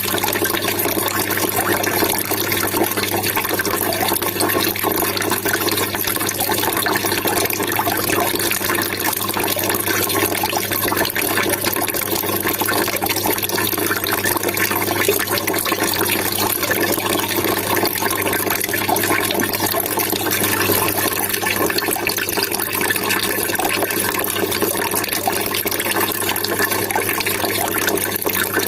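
Water trickling and splashing steadily, a continuous babble with no breaks.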